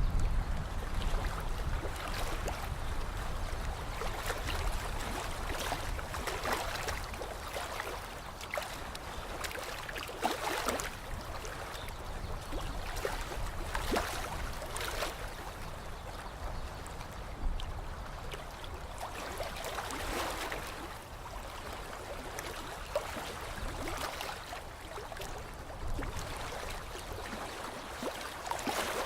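Lake water lapping and gurgling: small irregular splashes over a steady watery wash, with a low rumble in the first few seconds.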